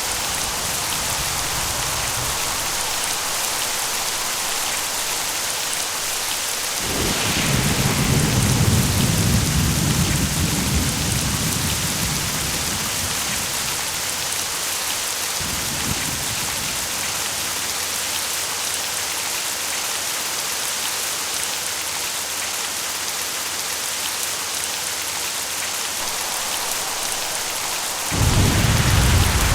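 Steady rain with rolling thunder. A long rumble of thunder starts about seven seconds in and rolls on for several seconds, a shorter rumble follows near the middle, and another clap begins suddenly near the end.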